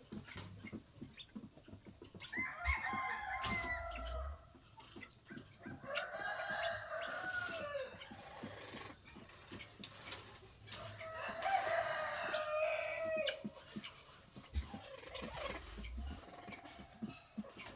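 Roosters crowing three times, each crow lasting about two seconds, with hens clucking and scattered clicks between them.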